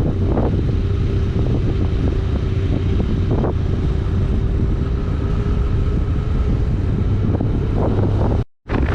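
Yamaha YBR125G single-cylinder motorcycle engine running at a steady speed while riding, with wind buffeting the microphone. The sound cuts out completely for a moment near the end.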